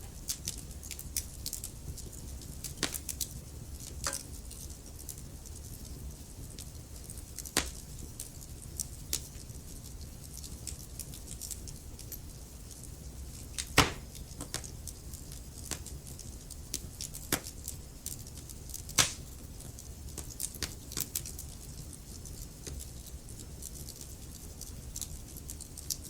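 Wood fire crackling, with a steady low rumble of the flames and scattered sharp pops and snaps; two louder pops stand out about halfway through and about three quarters of the way in.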